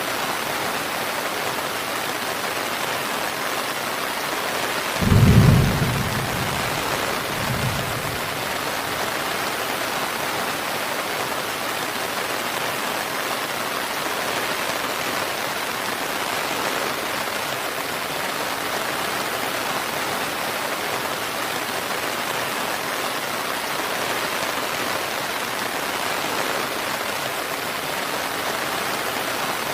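Steady heavy rain with a short low rumble of thunder about five seconds in and a fainter one a couple of seconds after.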